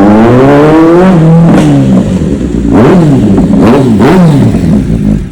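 Kawasaki Z900's inline-four engine being revved: a long climb in pitch, then three quick throttle blips that rise and fall back.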